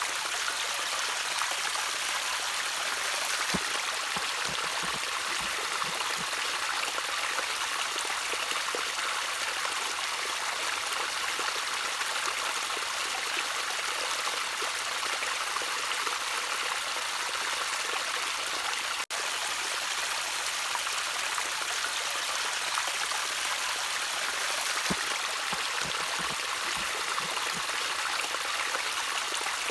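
Shallow stream trickling and splashing steadily, with a few low plops and gurgles now and then. The sound drops out for an instant about two-thirds of the way through.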